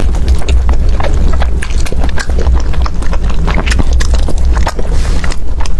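Close-miked eating: a run of irregular crisp clicks and crunches from chewing, over a steady low rumble.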